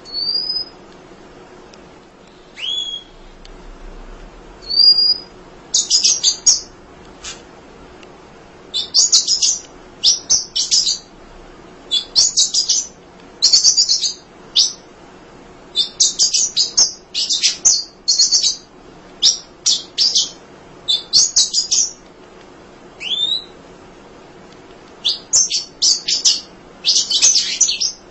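Emprit (munia) singing. A few thin upward-slurred whistles give way to repeated bursts of rapid, high chattering twitter, each lasting a second or less, with short pauses between them.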